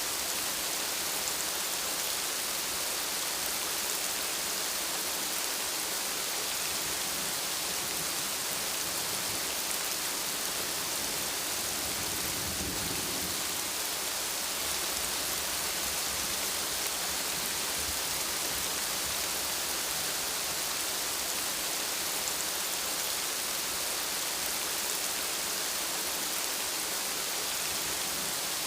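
Steady rainfall, an even hiss, with a brief low rumble of distant thunder about halfway through.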